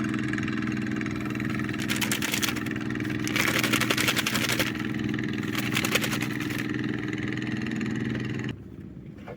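A small engine running steadily at idle, with three louder bursts of rushing noise over it about 2, 3.5 and 6 seconds in; the engine sound cuts off abruptly about a second before the end.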